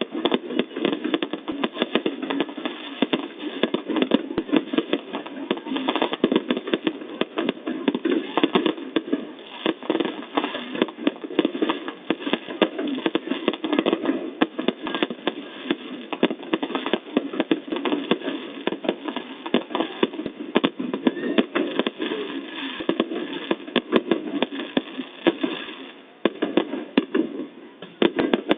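Fireworks display: a dense, unbroken run of bangs, pops and crackles overlapping one another.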